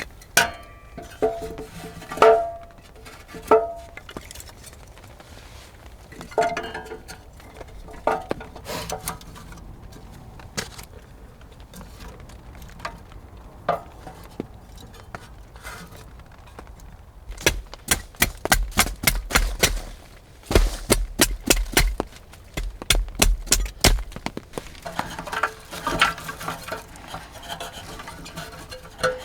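Handling sounds of camp work: scattered wooden knocks and clinks of metal utensils, with a long run of quick, sharp strikes and dull thumps in the middle.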